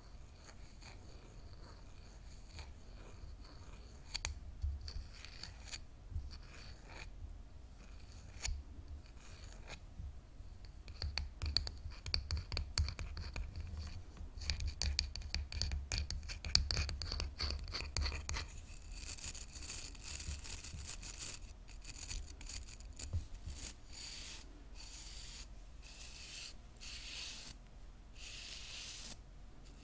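Hairbrush bristles scratched and rubbed in quick, crackly strokes. About two-thirds of the way through, these give way to slower, longer brushing strokes with a hiss and short pauses between them.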